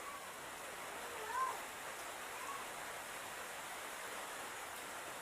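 Steady outdoor hiss like light rain or running water, with a few short, faint calls about a second and two and a half seconds in.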